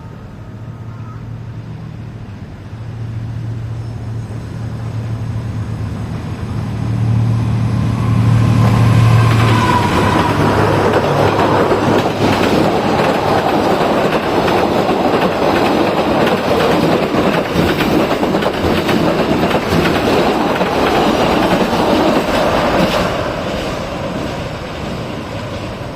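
D19E diesel-electric locomotive approaching with its engine rumbling, growing louder over the first ten seconds. It then passes, followed by the passenger carriages, their wheels clattering over the rail joints. The sound fades near the end.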